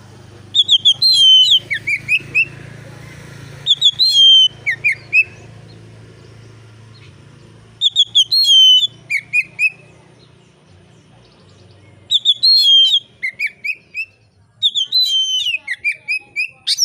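Oriental magpie-robin singing in five loud phrases a few seconds apart. Each phrase is a quick run of clear whistled notes that starts high and steps down to lower notes.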